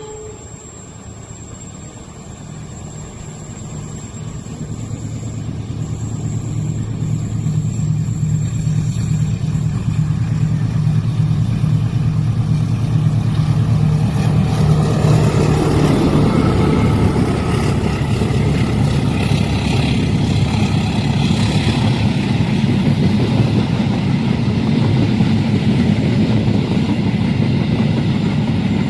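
Diesel train approaching a level crossing and passing: the locomotive's engine hum grows steadily louder over the first dozen seconds, then gives way to a loud, steady rumble of the train going by.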